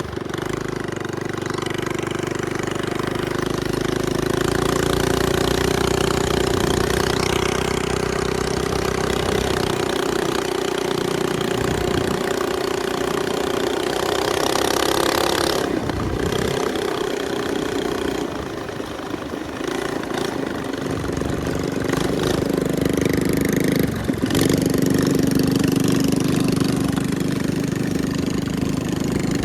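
Small minibike engine running while being ridden, its note holding mostly steady. The engine drops out briefly about halfway through, then returns and settles into a lower steady note for the last few seconds.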